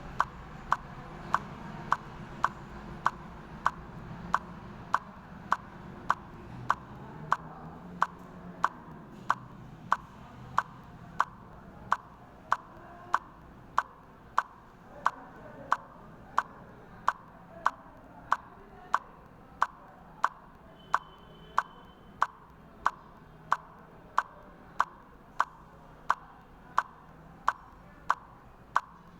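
A steady run of sharp, evenly spaced clicks, a little over one and a half per second, over a faint low background.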